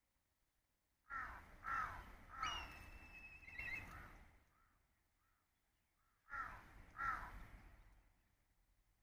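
A crow cawing: three harsh caws in quick succession, then two more after a pause of about two seconds. A thin, steady whistled note runs alongside the third caw for about a second.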